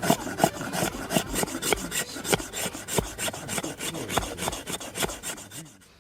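Rapid, uneven rasping strokes on wood, about four to five a second, that stop suddenly near the end.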